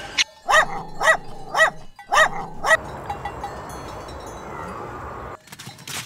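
A dog barking five times in quick succession, about two barks a second, followed by a few seconds of faint steady background noise.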